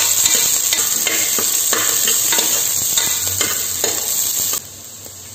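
Sliced onions and green chillies sizzling in hot oil and ghee in a pressure cooker, with a metal spoon scraping the base in short repeated strokes as they are stirred. The sizzle drops away suddenly near the end.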